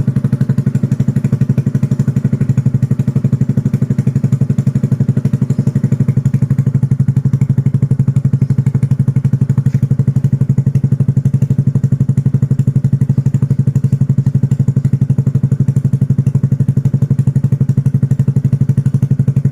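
Yamaha Vino scooter's engine idling steadily through a KOU Mahachai aftermarket exhaust, with a fast, even pulsing beat.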